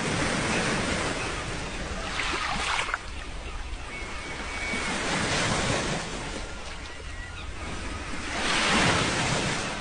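Sea waves breaking and washing up the shore, in surges every few seconds, the loudest one near the end.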